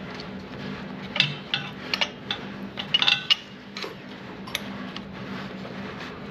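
Metal clinking: a run of sharp clinks and clicks for about three seconds, loudest around the middle, over a steady low hum.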